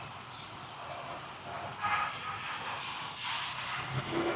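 Street traffic noise, a steady hiss of passing vehicles, swelling briefly a little past the middle.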